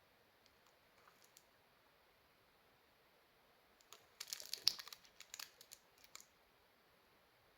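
Plastic wrapping being handled: a quick run of sharp crackles and clicks lasting about two seconds midway, with a few faint clicks about a second in and faint room tone otherwise.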